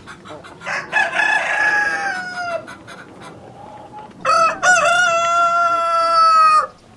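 Rooster crowing twice. The first crow is hoarser and drops in pitch at its end; the second, a couple of seconds later, is a clearer, long held crow that cuts off abruptly.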